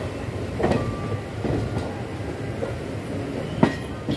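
Passenger coach of an express train rolling along the track with a steady rumble. Now and then a wheel knocks over a rail joint or set of points, and the sharpest knock comes near the end.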